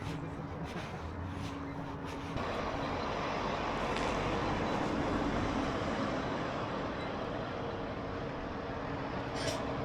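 Road traffic with a large vehicle's engine running close by, the noise growing louder about two and a half seconds in and then holding steady.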